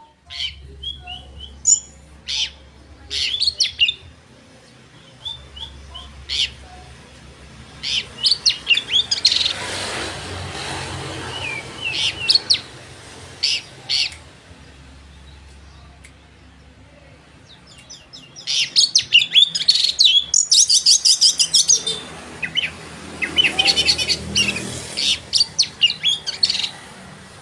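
Oriental magpie-robin (kacer) in energetic full song: bursts of clear whistles and rapid chattering phrases with short pauses between them, and a harsh buzzy rattle about 20 seconds in.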